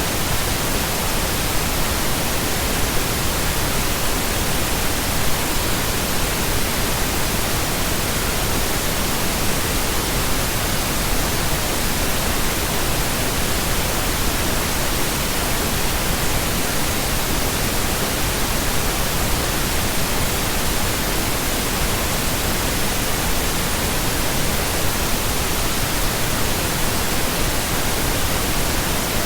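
Continuous, steady pink noise: an even hiss spread across the whole range, unchanging throughout.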